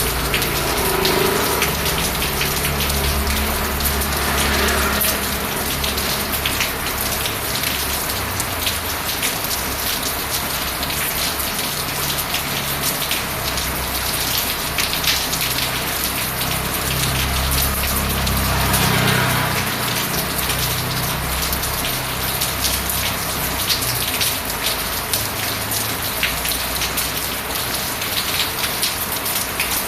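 Steady rain hissing on a surface, with a low rumble swelling twice, the second time louder.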